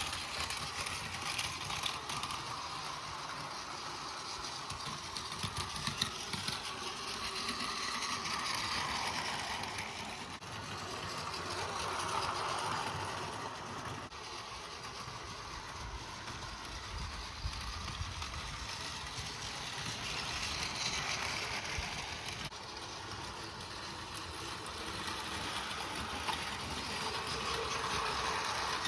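Battery-powered Plarail 0 Series Shinkansen toy train running on plastic track: a steady small-motor whir with wheels rattling over the rail joints, growing louder and fading every several seconds as it circles past.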